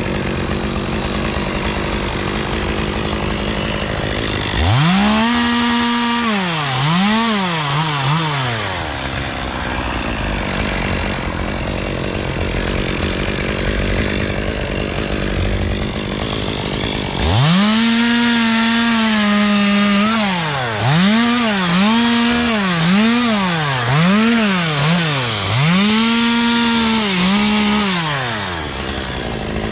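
Two-stroke chainsaw running at high revs while trimming a Canary Island date palm, its pitch rising to full throttle and sagging again and again under load. The hard revving comes in a short spell about five seconds in and a longer one from a little past halfway, with lower, steadier running between.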